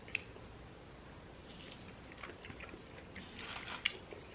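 Close-miked chewing and mouth sounds of people eating, with scattered small clicks, a busier crackly stretch in the last second or so, and one sharp click near the end.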